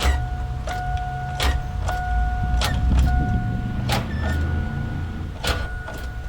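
The seized 4.3-litre V6 of a 2001 Oldsmobile Bravada, locked up from running without oil, being cranked and not turning over. There is a low rumble, a steady high whine that keeps breaking off, and sharp clunks at uneven intervals about a second apart.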